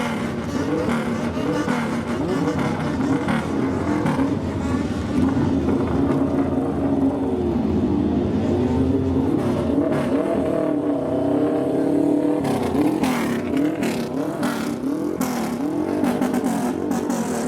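Car engine being revved again and again, its pitch rising and falling with each blip of the throttle, with sharp crackles in the last few seconds.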